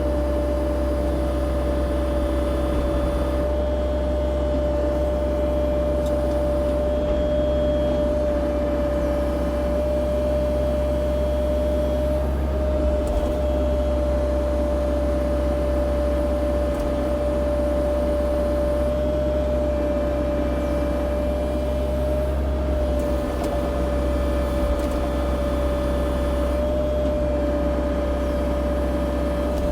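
CAT 304 E2 mini excavator's diesel engine running steadily under work, with a steady whine over the deep engine hum.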